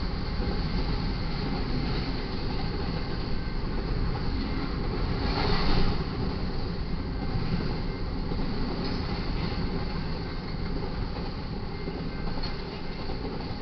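Cars of a BNSF intermodal freight train rolling past on the main track: a steady rumble and rail noise from the wheels, with one brief louder surge about halfway through and the sound easing off slightly near the end.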